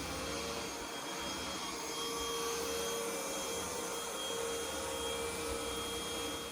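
Cordless vacuum cleaner running steadily: an even airy rush with a constant motor whine.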